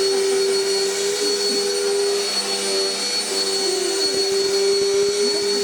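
Vacuum cleaner running steadily: a constant motor hum with a high whine over the rush of air.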